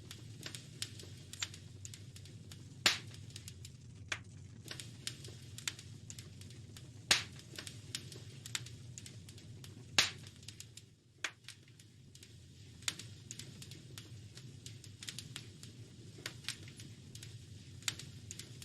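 Wood fire crackling: a steady run of small snaps and pops over a low rumble, with three louder pops about three, seven and ten seconds in.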